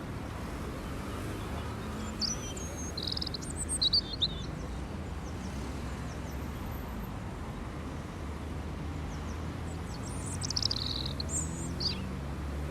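Small birds chirping in two short clusters of quick high calls, about two seconds in and again about ten seconds in, over a steady low background rumble.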